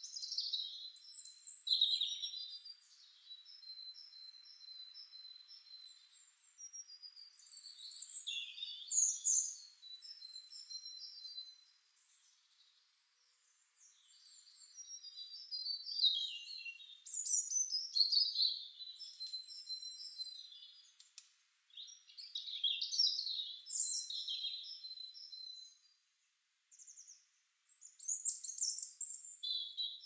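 Songbirds singing: high, varied chirping and warbling phrases with short held notes, coming in bouts with a brief lull a little before halfway and another near the end.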